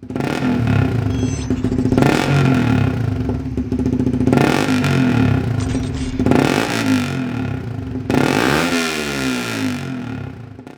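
Suzuki GSX-R150 single-cylinder engine through a Yoshimura R77 full-system exhaust, revved in four sharp throttle blips about two seconds apart over a steady running note, with the revs sweeping down near the end.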